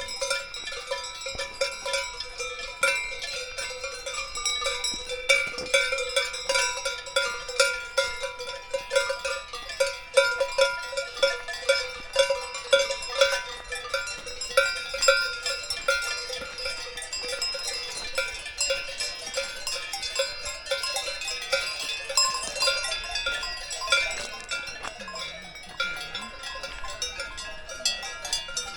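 Many cowbells on grazing cows clanking irregularly and overlapping, each clank ringing on. The clanking is busiest in the middle and thins out towards the end.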